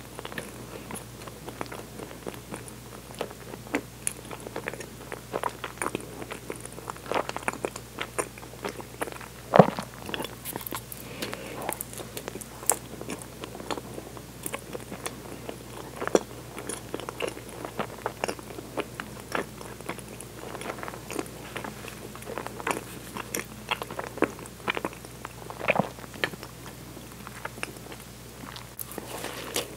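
Close-miked chewing of a soft bread bun: a string of wet mouth clicks and smacks, one of them much louder about ten seconds in.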